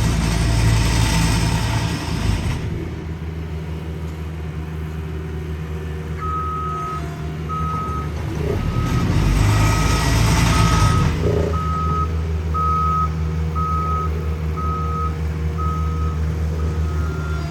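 Heavy road-paving equipment running, its engine a steady low hum with louder surges at the start and again midway. About six seconds in, a backup alarm starts beeping about once a second while the machine reverses.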